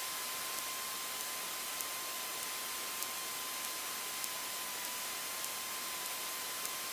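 Steady hiss of a cockpit intercom and radio headset audio feed between transmissions, with a thin steady high tone running through it and faint ticks about every half second.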